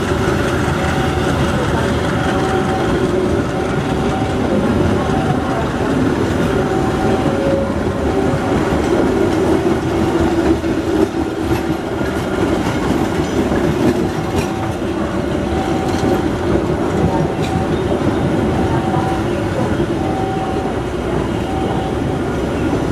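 Train passing close by, its wheels clattering over the rail joints with a loud, steady rumble. A short tone repeats roughly once a second throughout.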